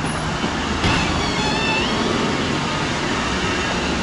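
Steady motor-vehicle running noise, with a short high squeak about a second in.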